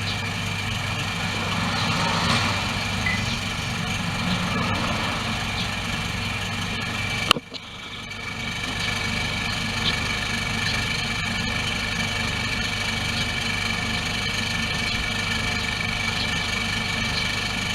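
Mazda Demio engine idling with a steady high-pitched whine over the engine hum, the abnormal noise that comes from play in the alternator's rotating shaft. A sharp click about seven seconds in, then the sound dips briefly before settling back.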